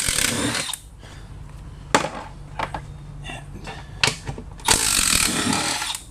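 Milwaukee 12-volt cordless 3/8-inch impact wrench hammering in two short bursts, one at the start and one about five seconds in, backing out the engine mounting bolts on a push mower deck. A couple of sharp knocks come between the bursts.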